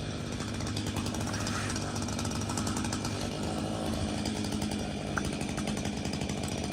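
Two-stroke chainsaw engine running steadily at an even speed, with a rapid buzzing pulse.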